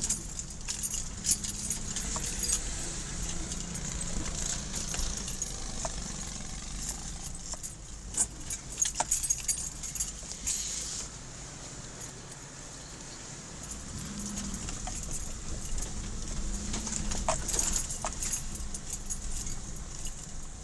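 Inside a moving car: keys jangling and clinking over the steady low rumble of the engine and tyres, with a few louder clusters of clinks partway through.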